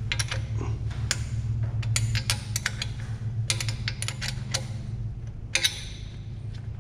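Hand ratchet clicking in short runs of rapid clicks as bolts are wrenched out, over a steady low hum.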